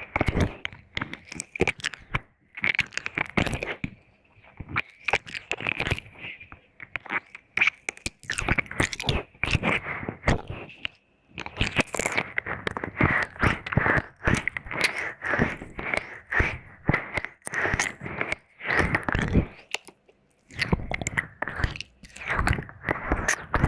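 Close-up ASMR wet mouth sounds: licking, clicking and smacking of tongue and lips, in quick irregular clusters with short pauses between them.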